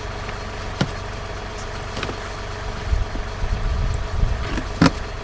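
Snow shovel working deep, heavy snow: a few sharp scrapes and knocks of the blade, with a patch of low rumble partway through, over a steady engine hum in the background.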